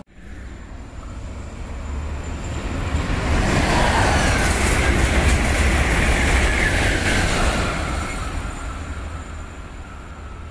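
Electric passenger train passing by: the sound builds to its loudest around halfway, then fades as it runs off, with a faint whine dropping in pitch as it goes by.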